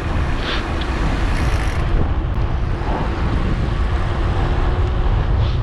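Wind rumbling on the microphone with steady road noise while riding a bicycle.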